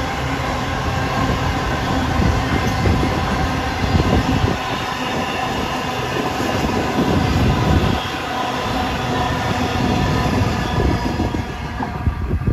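Freight train rolling past: a loud, steady rumble of wagons on the rails, with thin ringing tones from the wheels running over it.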